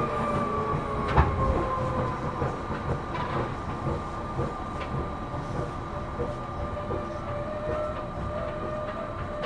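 Seibu New 2000 series electric train heard from inside the car while running: low rumble with a motor and gear whine that drops slightly in pitch over the first few seconds, then holds steady. Sharp clicks from the wheels over the rails, the loudest about a second in.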